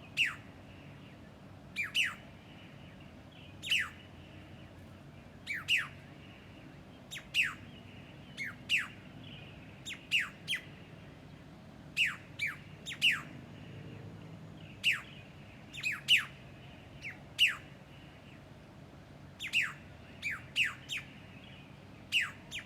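A bird calling repeatedly: short, sharp notes that sweep steeply down in pitch, given singly or in quick pairs and threes every second or two.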